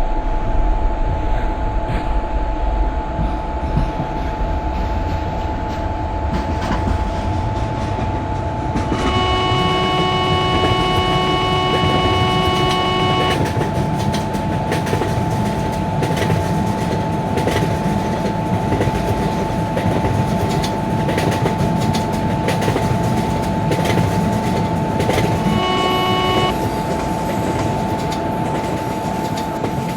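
A train passing at speed, with a steady loud rumble of wheels on rail. A locomotive horn sounds for about four seconds about nine seconds in, and again briefly near the end.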